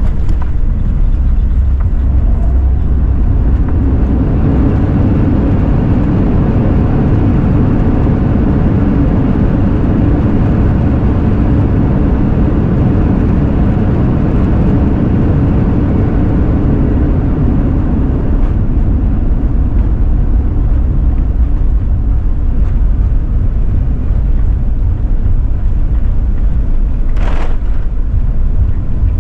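Airbus A380 cabin noise during the landing roll: a loud, steady rush of engines and airflow that swells a few seconds in, stays strong for about fifteen seconds, then eases as the aircraft slows. A brief sharp sound comes near the end.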